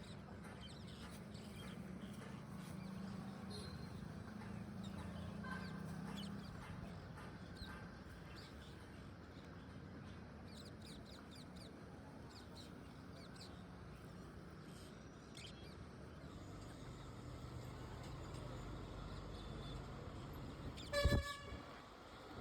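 Birds calling with scattered short chirps over a faint steady background. One loud, short, harsh call comes near the end.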